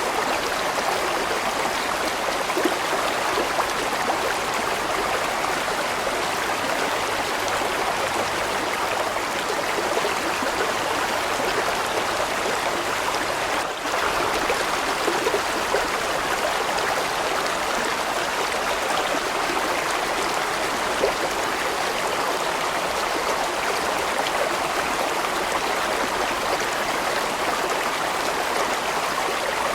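A large stream flowing steadily: a constant rush of moving water, with a momentary dip in level about halfway through.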